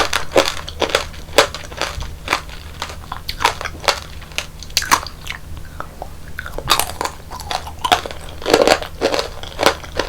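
Close-miked biting and chewing of tanghulu, the hard sugar-candy shell on the fruit cracking in many sharp crunches throughout, with a faint steady low hum underneath.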